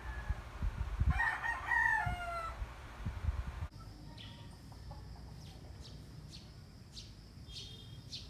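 A rooster crowing once, about a second in, over a few low knocks. After a sudden change near four seconds, faint small birds chirp repeatedly.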